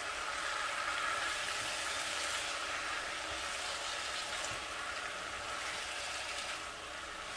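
Vegetable and noodle stir-fry with teriyaki sauce sizzling steadily in a hot frying pan while it is stirred with a silicone spatula.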